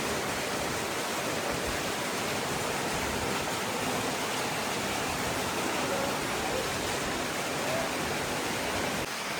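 Rushing water, a steady unbroken roar like a waterfall or fast mountain stream.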